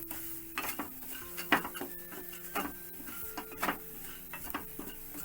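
A spoon scraping and clinking against a kadai, with repeated short strokes, as spices are stirred into hot oil. Soft background music of held notes plays underneath.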